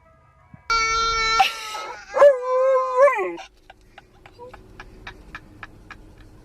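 A dog howling twice: first a short, steady note, then a longer one that wavers and rises at the end. A run of faint, quick ticks follows.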